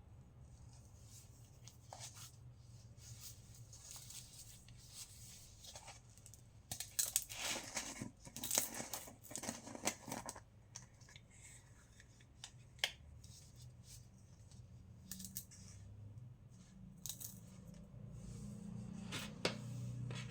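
Compressed baking soda being crushed, giving crisp crunching and crumbling with scattered small crackles. A dense run of crunches comes about seven to ten seconds in, with a single sharp snap a little later and more crunches near the end. A faint low hum sits underneath.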